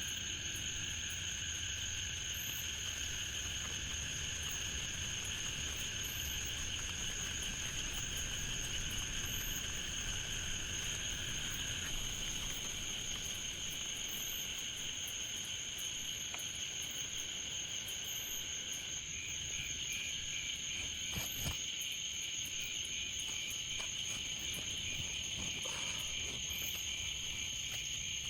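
A steady chorus of crickets and frogs calling, with continuous high trilling at several pitches at once. The lowest of these voices drops out about twelve seconds in, and a pulsing one joins a little higher about nineteen seconds in.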